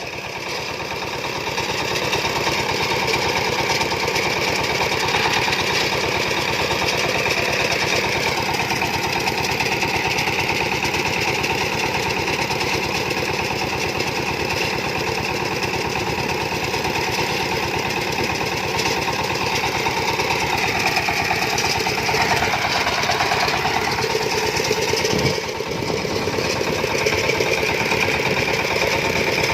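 Diesel farm engine running steadily. Its pitch sags and recovers about twenty seconds in, and the sound drops briefly a few seconds later.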